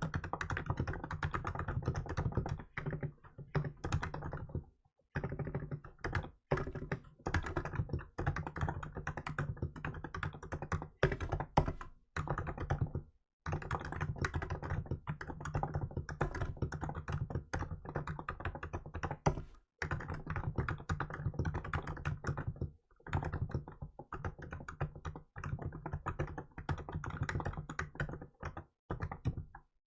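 Fast, continuous typing on a Hansung GK868B electro-capacitive keyboard with milk keycaps, a dense run of keystrokes broken by a few brief pauses.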